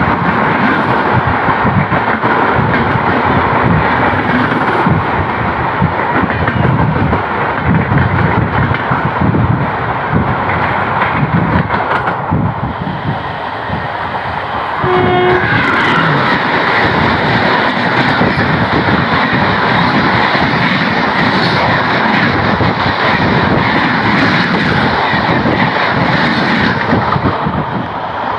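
Indian express trains running fast on adjacent tracks, heard from the open door of a moving train: a loud, continuous rush and clatter of steel wheels on rail, with wind. The noise eases a little about halfway, then a short train-horn blast sounds and the rush comes back louder.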